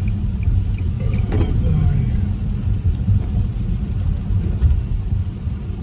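Steady low rumble of a car driving, heard from inside the cabin, with road and engine noise. A light regular ticking, about three a second, stops about a second in.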